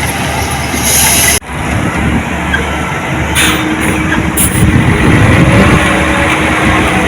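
Heavy earthmoving machinery running loudly, its diesel engine noise steady, with a sudden brief dropout about one and a half seconds in and a steady whine joining about halfway through.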